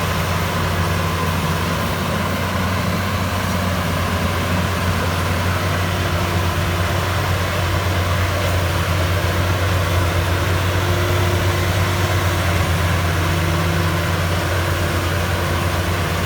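Maxxi Bimo 102 rice combine harvester's engine running steadily at an even, constant speed.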